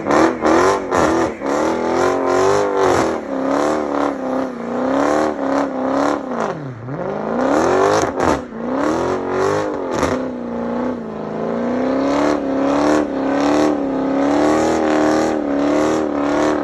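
Car engine running hard at high revs, its pitch wavering, dropping steeply about seven seconds in and climbing again a second later, with a string of short sharp cracks about twice a second.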